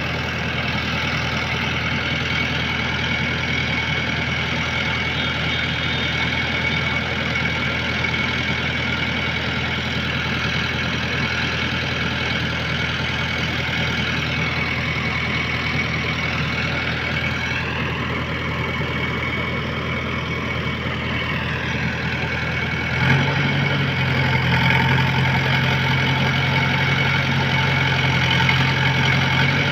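JCB 3DX backhoe loader's diesel engine running steadily, then getting louder and heavier with a sudden step about 23 seconds in.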